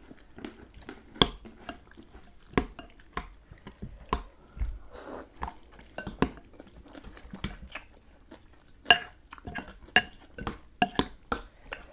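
Eating utensils clinking and tapping against bowls: a string of sharp clicks, several near the end ringing briefly.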